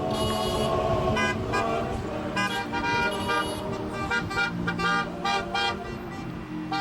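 Several car horns honking over and over in short and longer toots at different pitches, over the low rumble of passing traffic.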